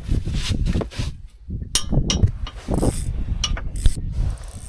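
Fishing reel being cranked with ratcheting clicks and rattles while a kob is played on the line, over a low rumble and scattered sharp knocks.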